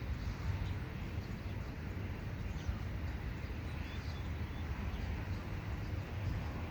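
Wind buffeting the microphone in a steady low rumble, with a few faint, brief high bird chirps.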